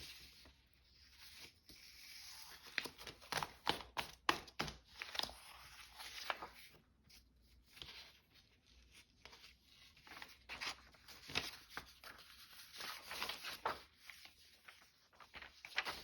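Sheets of paper being handled and shuffled: irregular rustles, slides and light taps as folded paper signatures are sorted and stacked.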